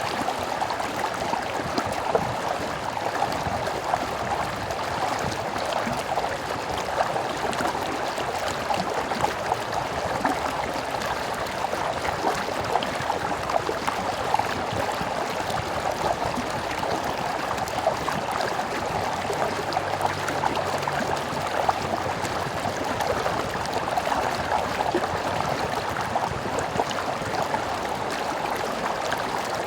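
Stream water flowing and burbling steadily.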